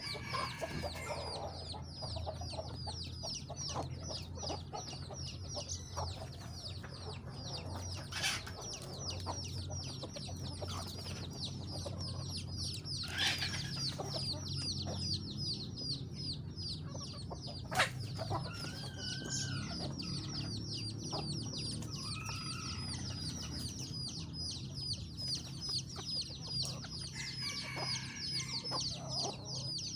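Chickens clucking, with occasional louder calls, over a continuous rapid high-pitched chirping and a few sharp knocks.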